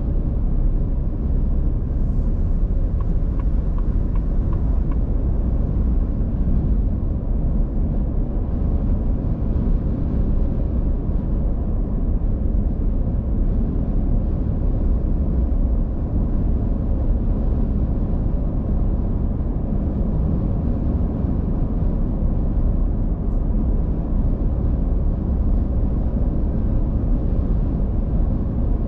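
Steady low rumble of a car being driven: tyre and engine noise that stays even throughout.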